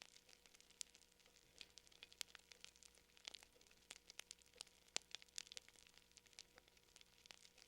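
Wood fire crackling: quiet, irregular sharp pops and snaps, several a second, over a faint hiss.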